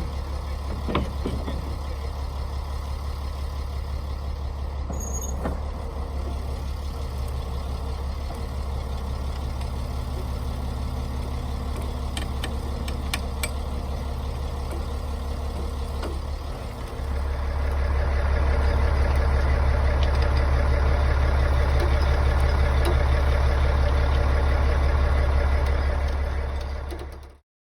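John Deere 450-C bulldozer's diesel engine running steadily, growing louder about 17 seconds in as it is throttled up, then cutting off suddenly near the end.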